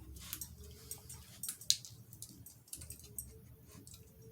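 Yorkshire terrier eating from its bowl: faint, scattered small clicks and crunches, a few a second, one sharper click near the middle.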